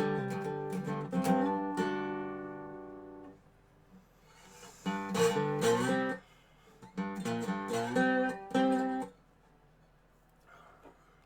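Dobro resonator guitar played blues-style. A plucked phrase rings out and fades over about three seconds. After a pause come two short runs of plucked notes and chords, and the playing stops about nine seconds in.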